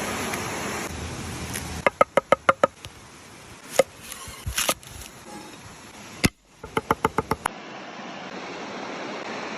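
Knife chopping on a cutting board in two quick runs of sharp strokes, about eight a second, with a few single knocks between them, over a steady background hiss.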